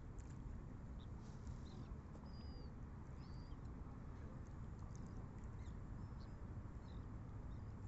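Short, high bird chirps scattered over a steady, faint low rumble of open-air background.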